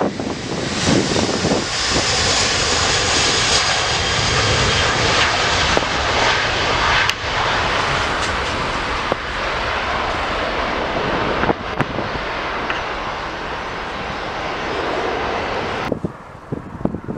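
Jet airliner's engines, a loud rush of noise with a faint high whine above it, dropping off sharply near the end.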